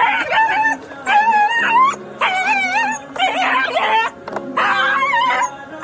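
A dog stuck in mud crying in distress: about five high, wavering whining yelps in a row, each under a second long. Steady background music runs underneath.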